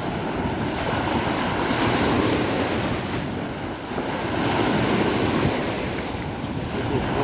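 Heavy sea surf breaking on the shore in surging crashes, one swelling up about two seconds in and a longer one a little past the middle, with wind buffeting the microphone.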